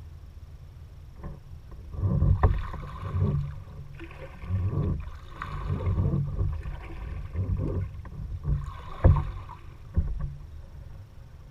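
Kayak paddle strokes in the water: a run of splashing strokes about once a second, starting about two seconds in and stopping near the end, with a few sharp knocks among them.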